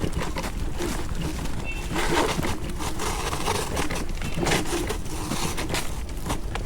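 Electric scooter moving over a dirt trail: steady wind rumble on the chest-mounted camera's microphone, with many small crackles and crunches from the tyres and frame. The noise is heavier around two to three seconds in.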